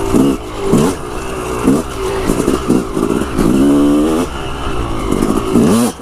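Yamaha YZ dirt bike engine being ridden hard, its revs rising and dropping again and again as the throttle is worked, with a longer climb in pitch about three and a half seconds in.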